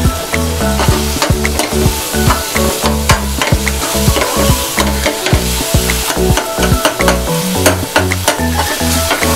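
A metal spoon stirring and scraping a tomato-and-onion tadka frying in ghee in a metal pan: sizzling with many quick clicks of the spoon against the pan. Background music with a steady bass line plays under it.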